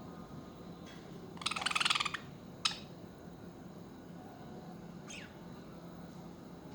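Budgerigar calling: a harsh, rapid chattering burst about a second and a half in, then a sharp short call, and a quick falling chirp a few seconds later.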